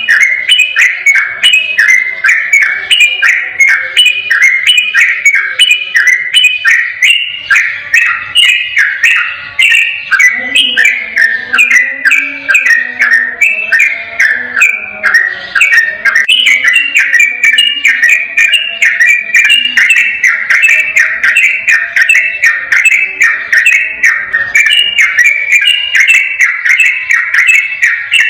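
Yellow-vented bulbul (trucukan) singing a long, unbroken 'ropel' song: a fast chattering run of short, clear, falling whistled notes, about three to four a second, without a pause.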